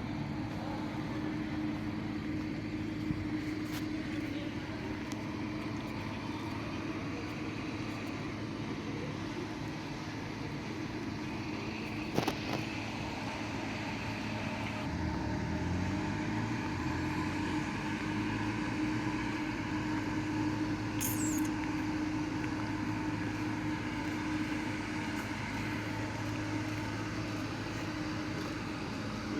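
Motor vehicle engine running steadily with a constant low hum, its pitch shifting up and down briefly about halfway through; a single sharp click near the middle and a short high chirp later.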